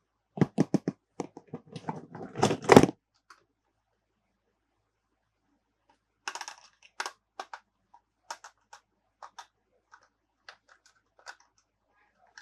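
Hard plastic toy pieces and packaging being handled: a quick clatter of knocks and clicks over the first few seconds, then scattered light clicks from about six seconds in.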